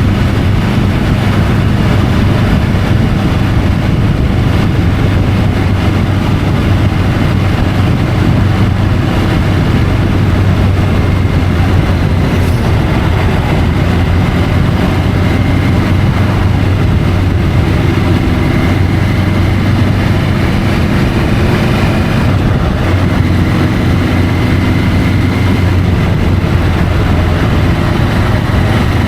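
Triumph Tiger 850 Sport's three-cylinder engine running at a steady cruise, picked up by a camera mounted on the motorcycle, with wind and road noise mixed in.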